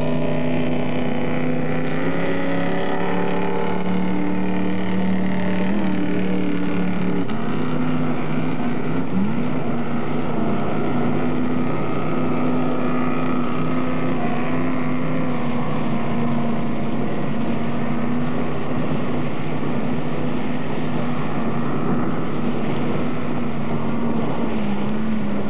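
Engine of a 1976 Kachina 17-foot jetboat running steadily out on the water. Its note drops slightly about seven seconds in, then holds steady.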